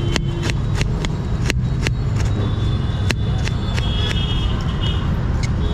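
Steady low rumble of street traffic, with a few sharp clicks and taps scattered through it.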